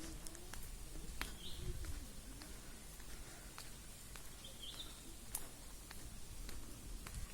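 Outdoor background noise with two short bird chirps, one about a second and a half in and one just before the fifth second, over scattered faint clicks.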